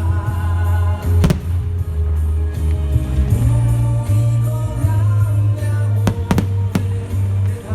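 Loud soundtrack music with a heavy bass played over the show's loudspeakers, with fireworks going off: one sharp bang about a second in and a quick run of three or four bangs near the end.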